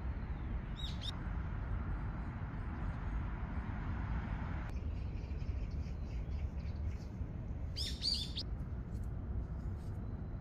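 Small birds chirping: a brief few chirps about a second in and a busier cluster near eight seconds, over a steady low outdoor rumble.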